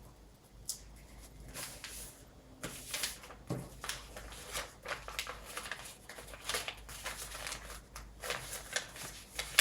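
Sheet of paper rustling and crackling in short, irregular strokes as it is folded and creased into a paper airplane's wings.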